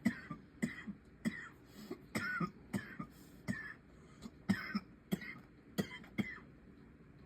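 A person in a coughing fit: a run of a dozen or so short, hacking coughs that stops about six seconds in.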